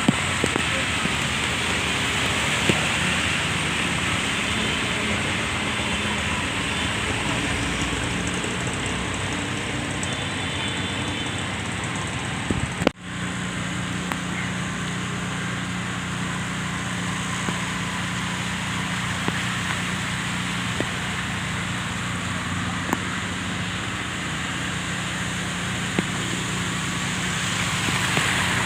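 Street sound in heavy rain: a steady hiss of rain and running water with vehicle traffic moving through it. The sound cuts out for a moment about 13 seconds in and resumes with a low steady hum under the hiss.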